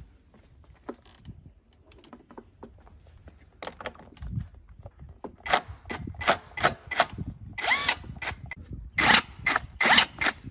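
Tool work on a rusty K950 concrete cutter: scattered clicks at first, then from about halfway a fast string of short, harsh metallic bursts that grows louder.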